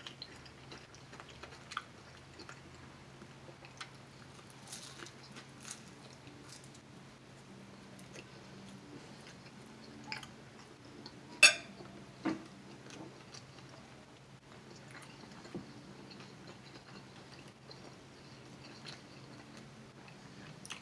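A person chewing a bite of egg roll with the mouth close to the microphone: soft, irregular mouth clicks and smacks over a low steady hum, with one sharp, loud click about eleven seconds in.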